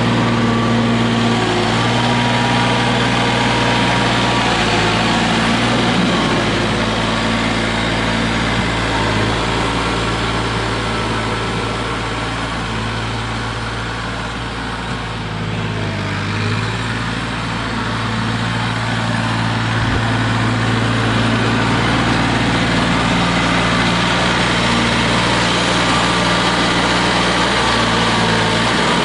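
Tractor engine running steadily while plowing snow, its note easing slightly about halfway through and then picking back up.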